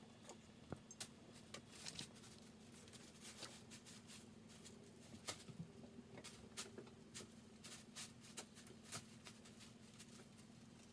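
Kittens moving about on a bed: faint, irregular scratching and ticking of claws on the bedding, over a low steady hum.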